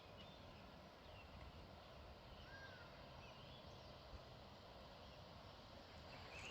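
Near silence: faint outdoor ambience with a few distant bird calls, short chirps and whistles scattered throughout.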